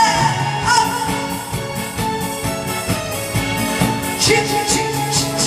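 Instrumental break of a backing track with a steady beat and held melody notes, the tail of a vibrato note just at the start.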